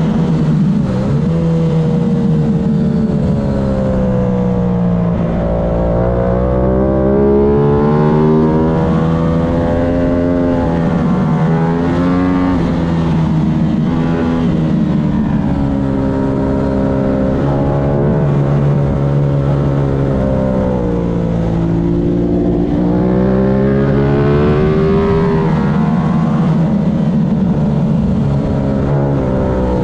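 Aprilia race motorcycle's engine at full race pace, heard onboard: the revs climb and fall again and again through gear changes and corners.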